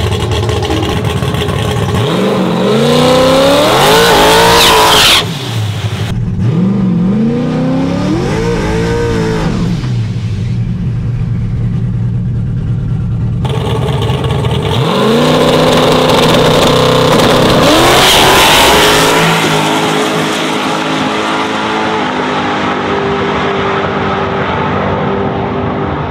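Turbocharged LS V8 engine of a 4x4 drag-racing street truck making a full-throttle pass, its pitch climbing steeply through the revs three times with breaks between, then settling to a steady drone near the end.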